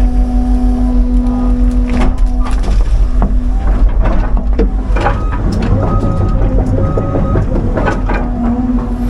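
CAT 323 excavator's diesel engine running under load with a steady hydraulic whine, which drops away about three seconds in and returns near the end. In the middle come repeated knocks and cracks as the bucket digs and pushes pine trees and their roots out of the clay.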